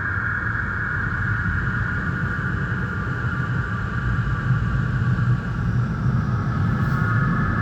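Christ Varius automatic car wash machine running: a steady low rumble with a constant whine over it.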